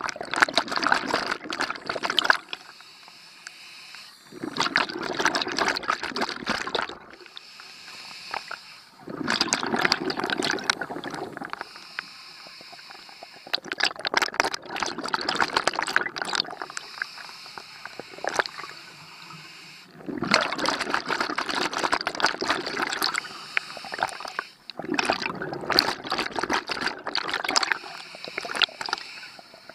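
Scuba diver breathing through a regulator underwater: loud bubbling exhalations alternating with quieter hissing inhalations, about one breath every five seconds.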